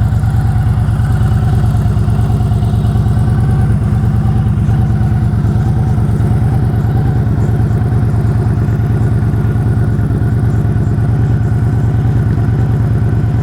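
A 2013 Victory Hardball's 106 cubic inch air- and oil-cooled V-twin idling steadily, its exhaust pulses even. The engine runs with no mechanical noise.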